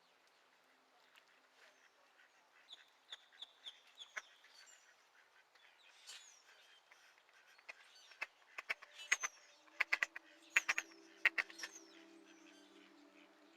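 Waterbirds calling: a quick run of short high notes, then a louder flurry of sharp calls that stops abruptly.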